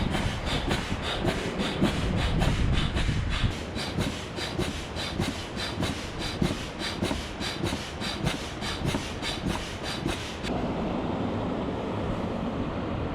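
Slow-running boat diesel engine knocking at an even beat of about three strokes a second. About ten seconds in, it cuts abruptly to steady wind and water noise.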